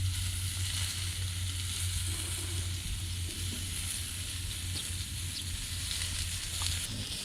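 Meat sizzling steadily on a hot grill plate over a fire pit, with a few small ticks from tongs, over a low steady hum.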